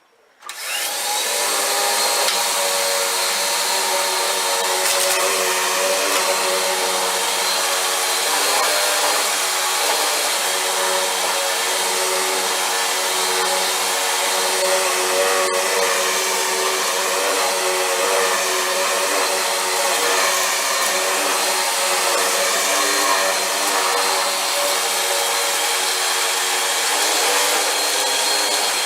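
Vacuum cleaner switched on, its motor spinning up in the first second or two and then running steadily with a constant whine.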